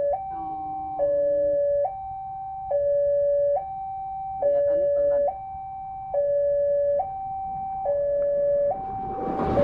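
Railway level-crossing warning alarm sounding its two-tone signal, a higher and a lower note alternating about once a second, the warning that a train is approaching. Near the end a rising rushing noise begins to build under it.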